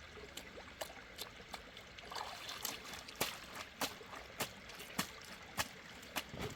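A series of sharp taps or knocks, sparse at first and then about two a second, over a steady faint hiss like trickling water.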